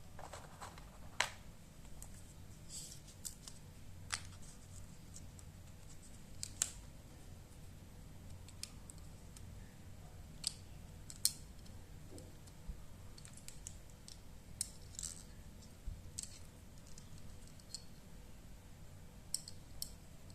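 Irregular small clicks and scrapes, a dozen or so scattered through, from handling a Poco X3 Pro smartphone as it is worked on by hand.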